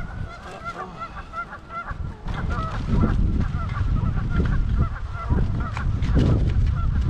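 Geese honking repeatedly, many short calls overlapping, over the rumble of strong wind buffeting the microphone.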